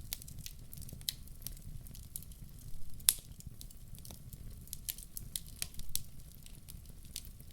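Wood fire crackling in a fireplace, with irregular sharp pops, the loudest about three seconds in, over a low steady rumble.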